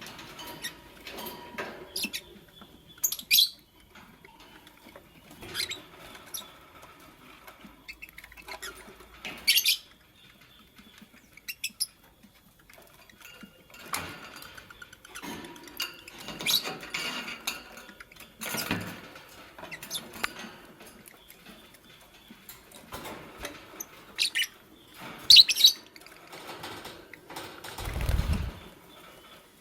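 Fischer's lovebirds moving about and rustling, with wing flutters, scratching and pattering, and a few short, sharp high chirps. A low thump comes near the end.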